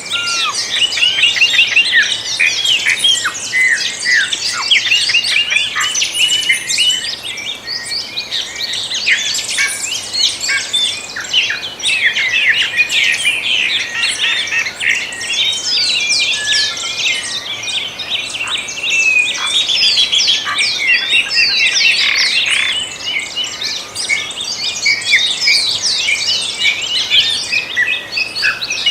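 A dawn chorus of many songbirds singing and chirping together, dense overlapping whistled notes and quick trills without pause.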